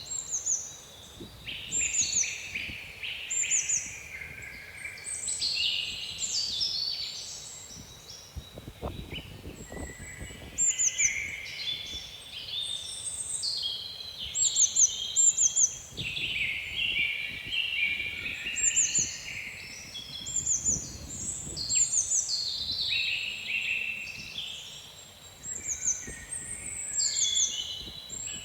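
Several songbirds singing at once in a continuous chorus, with short high notes that fall in pitch repeated again and again. Low rumbling wind gusts come and go underneath.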